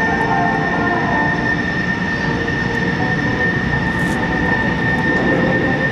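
Aero L-39 Albatros jet trainer's turbofan engine running, a steady rushing noise with a high, steady whine.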